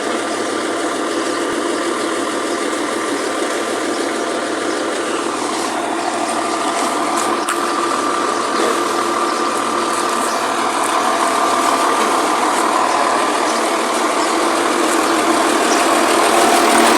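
Cement mixer truck running: a steady mechanical whine and clatter with a couple of held tones, slowly getting louder.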